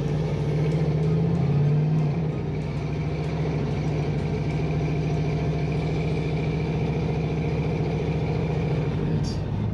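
A stuck 4x4 being winched out of snow: its engine runs steadily under light throttle, with a steady whine over it that fits the electric winch pulling.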